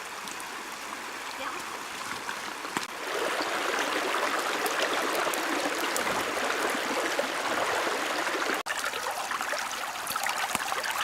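Stream water running and trickling, growing louder about three seconds in.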